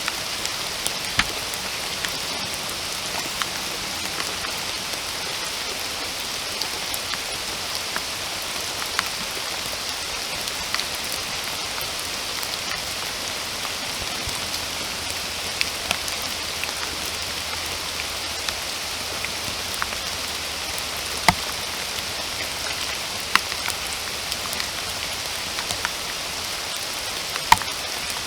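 Steady rainfall: an even hiss of rain with single drops tapping sharply close by now and then, a few of them louder.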